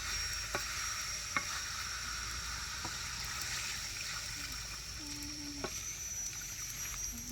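Food frying with a steady sizzle, with a few sharp clicks from a utensil against the pan.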